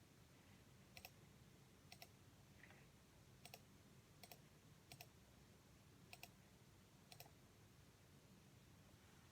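Faint, sharp double clicks, seven of them at irregular intervals about a second apart, over a low steady hum.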